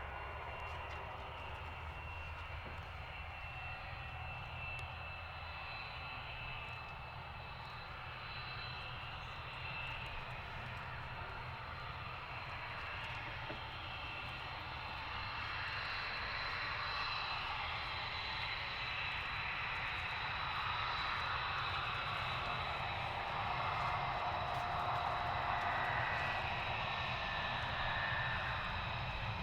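Aircraft engines running with a steady high whine, growing gradually louder over the second half.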